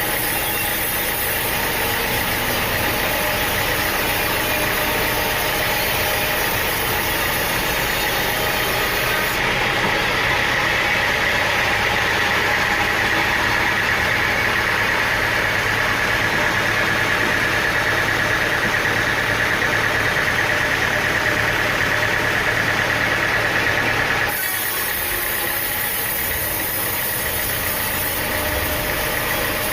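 Sawmill machinery running steadily: engine noise with a high saw whine that grows stronger partway through, then the sound changes abruptly.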